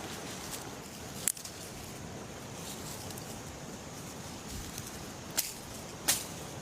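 Steady rushing of river water, with three sharp clicks or knocks: one about a second in and two close together near the end.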